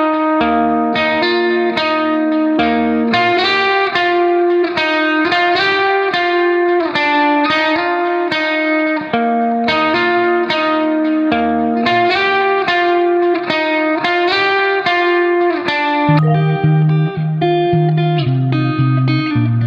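Background music: a guitar instrumental played as a steady run of picked notes, with a deeper bass line coming in near the end.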